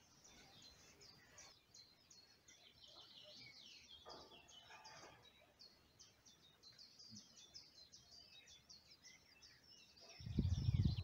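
Faint birdsong: many short, high chirps from several songbirds. A burst of low rumbling noise comes in near the end.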